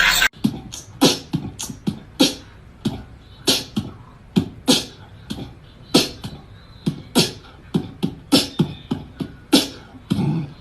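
A run of short, sharp clicks or smacks, roughly one or two a second in an uneven rhythm.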